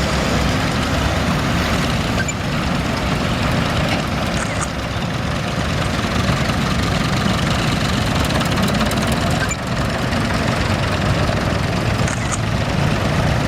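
Tractor engines running steadily as the parade's tractors roll past.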